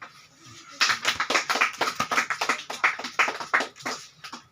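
A small audience clapping: many quick, uneven hand claps that start about a second in and die away near the end.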